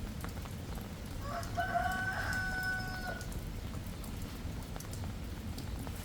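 A rooster crowing once, a drawn-out call starting about a second in, over a steady patter of light rain.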